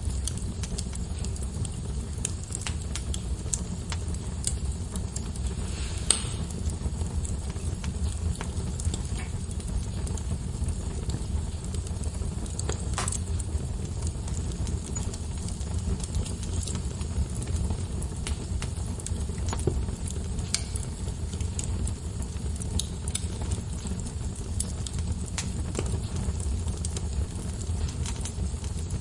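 Logs burning in a fireplace, crackling with scattered sharp pops over a steady low rumble. The loudest pops come about six and thirteen seconds in.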